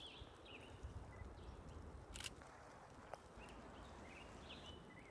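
Near silence, with faint, scattered short bird chirps and a single sharp click about two seconds in.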